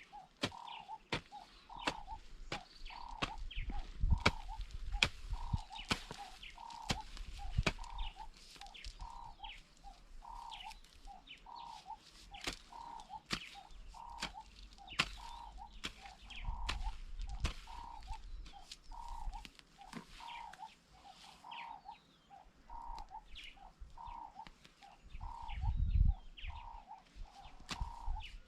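A bird calls one short note over and over, evenly, about one and a half times a second, with many sharp clicks and a few low thumps around it.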